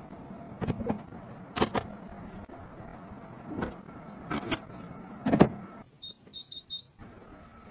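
Several sharp clicks and knocks of objects being handled and set down, then four quick high electronic beeps from a gadget about six seconds in, over a faint steady hum.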